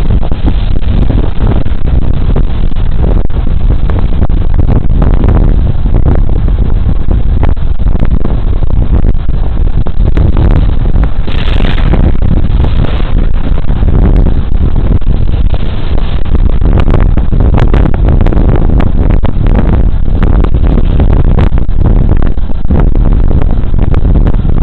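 Riding noise of a Suzuki Burgman Street 125 single-cylinder scooter under way, recorded on a small bodycam: heavy wind rumble on the microphone mixed with engine and road noise, loud and dull, with a brief louder hiss about halfway through.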